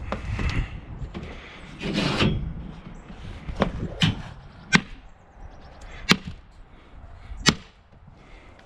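Scrap being handled: a rustle, then about five sharp knocks and clanks, irregularly spaced, the last one ringing briefly.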